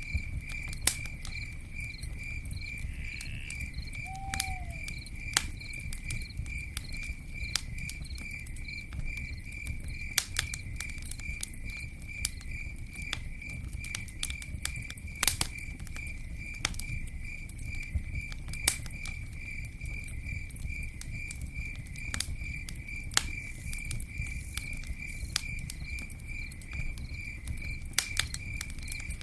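Campfire crackling: sharp pops every second or so over a low, steady rumble, with a cricket chirping in an even, quick rhythm throughout.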